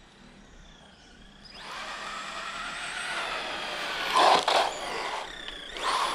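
Arrma Typhon 4x4 RC car with a brushless motor on a 3S LiPo, driving fast. Its high electric motor whine starts about a second and a half in and rises and falls with the throttle, with the loudest moments about four and six seconds in.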